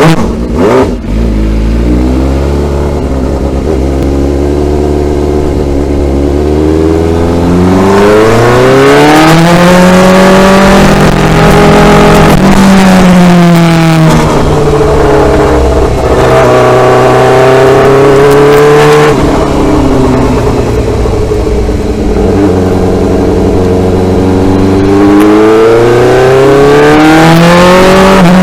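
Motorcycle engine running under way, its pitch climbing as it speeds up and falling away several times, with a sudden drop about two-thirds of the way through as it changes gear.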